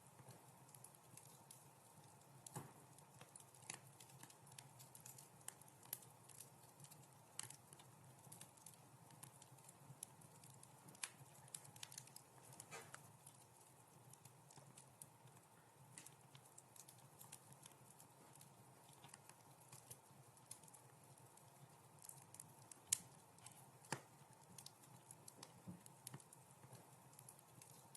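Wood fire crackling in a fireplace: irregular sharp pops and snaps over a faint steady hiss, with one louder pop near the end.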